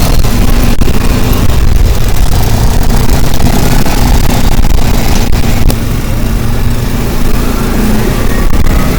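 Loud vehicle engine and road noise while moving, steady, with a few sharp knocks.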